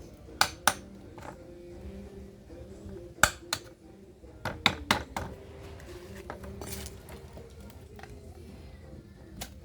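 Small hard objects clinking and knocking while being handled, about ten sharp separate clicks at uneven intervals, several bunched together around the middle, over a faint low hum.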